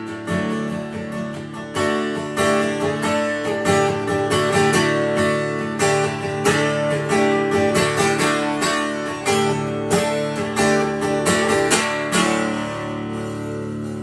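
Acoustic guitar strummed in a steady rhythm in an instrumental passage of a song. About twelve seconds in, a chord is left to ring and fade.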